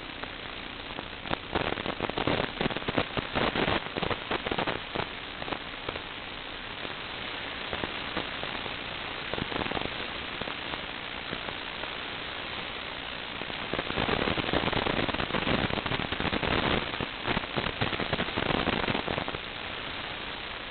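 Steady hiss with two long spells of dense crackling, the first from about one and a half to five seconds in and the second from about fourteen to nineteen seconds in.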